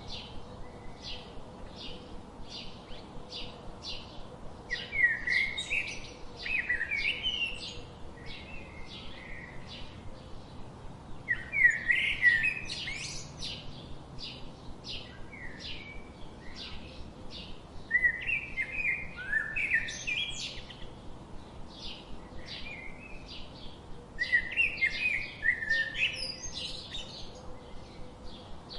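Birds chirping: a steady run of short high chirps about two or three a second, broken four times by a louder, jumbled burst of song-like phrases.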